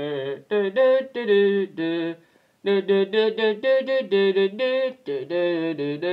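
A voice humming a wordless tune in short, separate notes that step up and down, like a theme song.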